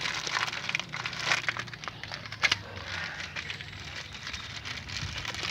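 Irregular rustling and crinkling with light clicks as small parts are handled, with a sharper click about two and a half seconds in.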